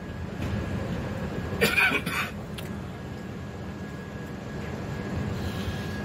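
Steady low rumble of an Indian Railways LHB passenger coach running, heard at the open coach door, with a short loud burst about two seconds in.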